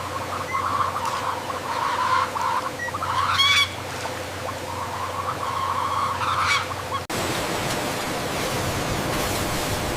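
Chickens squawking and calling over a steady hum, several calls in the first seven seconds. About seven seconds in, the sound cuts abruptly to a steady even machine noise.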